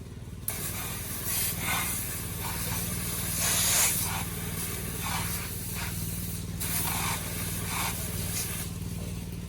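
Hissing noise that starts suddenly about half a second in and comes in uneven surges, over a steady low hum.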